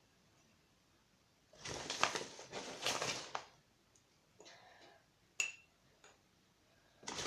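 A spoon digging and scraping through flour in its package, rustling in two spells, with one sharp metallic clink about five and a half seconds in.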